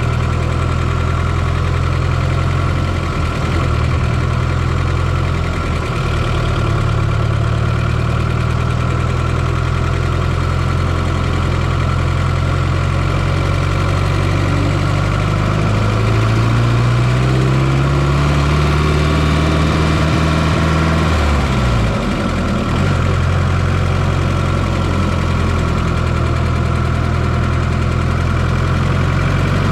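A Fiat Coupé 2.0 16V turbo four-cylinder engine idling steadily, heard close up from inside the engine bay. About halfway through, the engine revs gently up, holds for a few seconds, then drops quickly back to idle.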